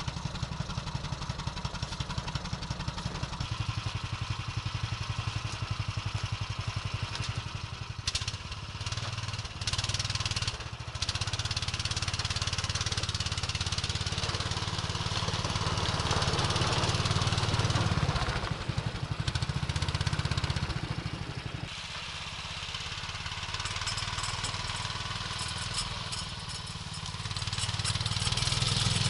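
An engine running throughout, with a rapid low pulsing. Its loudness rises and falls.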